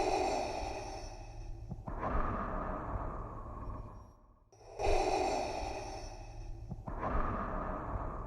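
Darth Vader's mask-respirator breathing: slow mechanical inhale-then-exhale hisses in a steady cycle. Two full breaths fall in this stretch, each pair about four and a half seconds long with a brief gap between.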